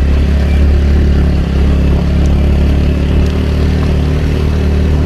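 Scooter engine running steadily while being ridden, with a couple of faint clicks about two and three seconds in.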